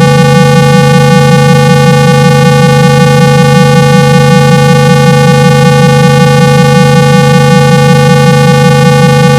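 Loud, steady 165 Hz electronic hum with a ladder of higher overtones and a slight fast, even pulsing: a generated tone played through a phone's loudspeaker to vibrate water out of it.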